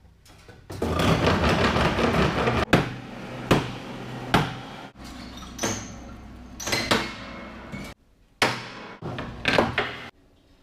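An old piano being knocked and taken apart: about two seconds of dense scraping or rattling, then a run of about eight separate sharp knocks, a few with a brief metallic ring after them.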